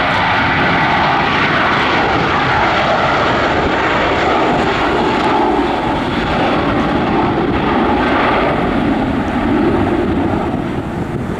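Airbus A321 jet engines at take-off thrust: a loud, steady roar, easing slightly near the end.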